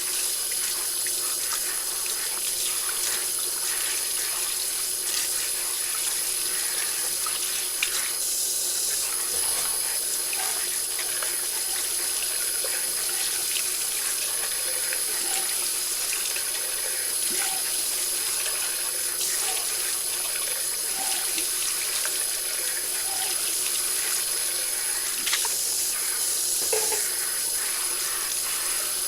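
Tap water running steadily into a kitchen sink during dishwashing, with a few light clinks of dishes.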